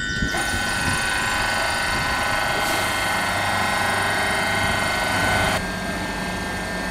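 Train at the station: a steady mechanical whine and hum, with a loud hiss that starts suddenly just after the start and cuts off about five and a half seconds in.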